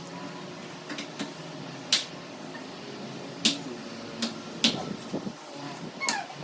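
Handling noises: a scatter of sharp clicks and knocks, about half a dozen with the loudest about two, three and a half and nearly five seconds in, over a faint steady hum.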